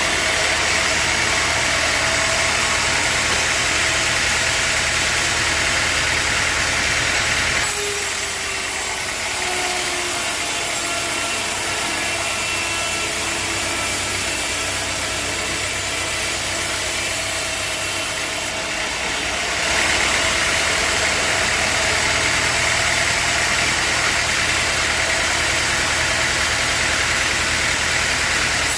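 Sawmill machinery engine running steadily, with a low hum and a higher whirring noise. The sound changes abruptly twice, about 8 and 20 seconds in.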